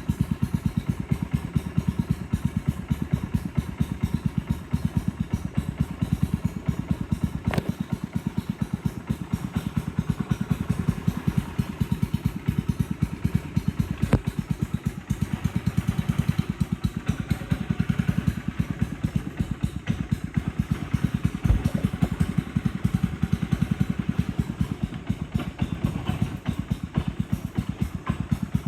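Boat's motor running steadily, its firing heard as a rapid, even pulsing, with a few single knocks along the way.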